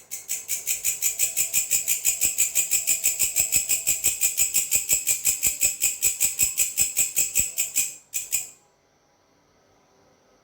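Grasshopper stridulating: a loud, high-pitched rasping chirp repeated about six times a second for some eight seconds, then one short extra burst and a sudden stop into a pause.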